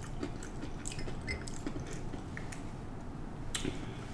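Quiet chewing and mouth sounds of a person eating deep-fried scallops and french fries, with scattered small clicks and crackles and one sharper click about three and a half seconds in.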